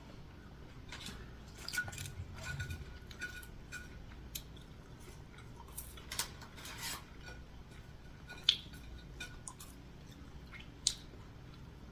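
Close-up eating sounds: chewing and wet mouth sounds with scattered small clicks, and two sharper clicks in the second half.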